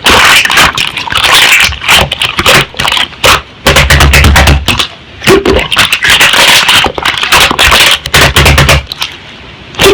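Slime being pressed and squished by hand, with rapid, irregular crackling clicks and pops from air pockets. Twice a low rumble lasts just under a second.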